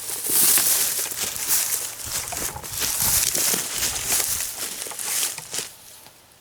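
Footsteps crunching and crackling through leaves and brush, an irregular run of steps that stops near the end.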